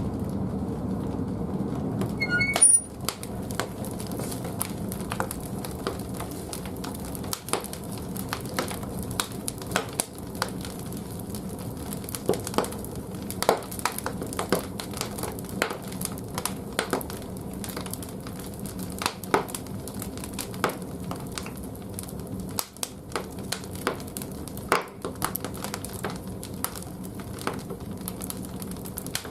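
Large firewood burning in a wood-fired bathhouse boiler: irregular crackles and pops over a steady low rumble of the fire, with a brief louder clatter about two and a half seconds in.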